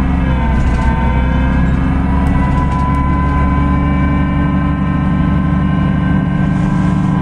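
Cummins ISB6.7 diesel engine of a Solaris Urbino 18 hybrid articulated bus running steadily, a low drone with several steady whining tones above it.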